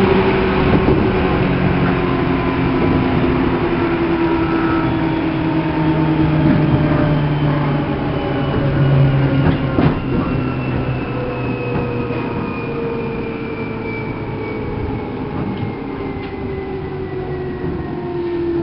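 Seibu New 2000 series electric train heard from inside motor car MoHa 2291. The traction motor and gear whine falls steadily in pitch as the train slows, over the rumble of the wheels on the rail. A single sharp click comes about ten seconds in.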